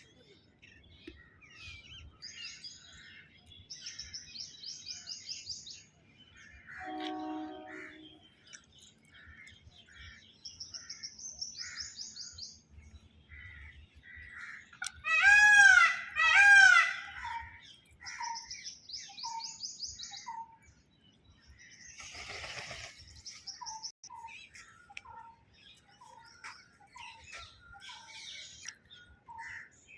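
Birds chirping and trilling throughout. About halfway through come two loud arching calls, one right after the other, the loudest sound here, and a string of short repeated notes follows later.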